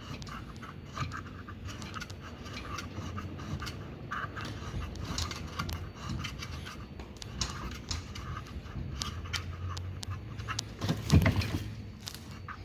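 Hands and tools taking apart a Fisher & Paykel washing machine's direct-drive motor: a run of small clicks, scrapes and rattles of metal and plastic parts, with a louder knock near the end.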